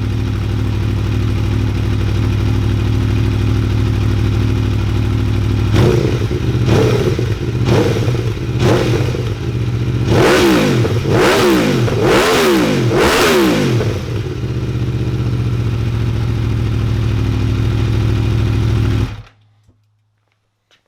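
The V4 engine of a 2018 Aprilia Tuono V4 1100 Factory runs through an Akrapovic exhaust with its baffle still fitted, in race mode. It idles, gives four quick throttle blips, then four longer revs, settles back to idle, and is switched off near the end.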